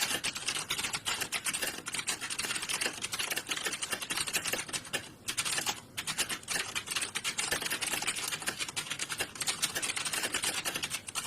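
Fast, dense typing on computer keyboards, with key clicks overlapping as in a typing-test hall full of typists. There are two short pauses about five and six seconds in.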